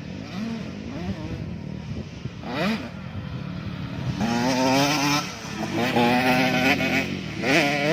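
Dirt-bike engines at a motocross track revving in several bursts: a quick rise in pitch about two and a half seconds in, then held revs twice in the second half and another rise near the end, over a steady low engine rumble.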